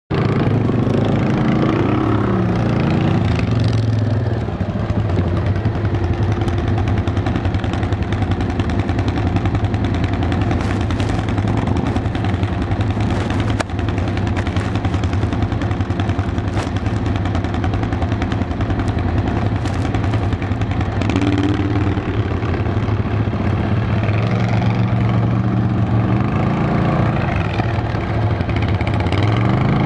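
ATV engine heard from on board, running steadily under way, its note rising and falling with the throttle a few times.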